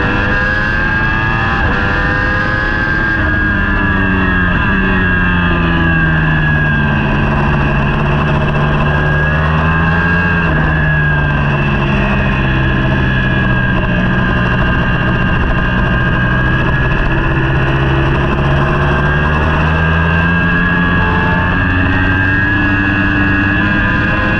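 Racing superbike engine heard onboard, running loud and continuously. Its pitch slides down over several seconds, stays low through the middle, then climbs again near the end as the rider slows and then picks up speed.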